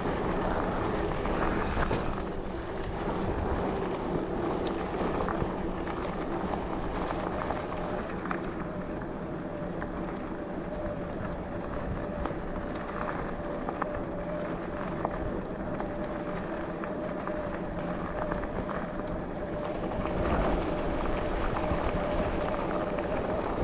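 Bike riding along a forest track: tyre rolling noise with many small crackles from the surface, some wind on the microphone, and a steady hum of a few held tones that shifts in pitch about a third of the way in.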